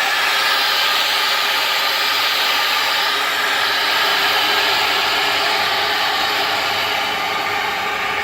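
Gas burner firing into a sauna stove's firebox alongside burning wood: a steady, loud hissing rush.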